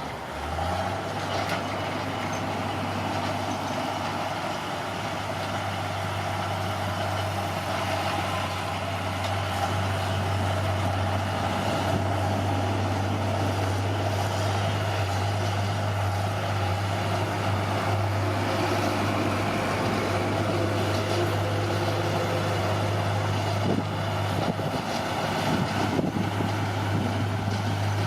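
Bulldozer's diesel engine running steadily with a low drone, with a few knocks near the end.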